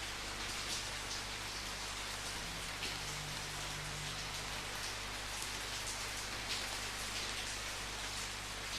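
Steady rain falling, with individual drops striking a surface as short, irregular louder hits over the steady hiss.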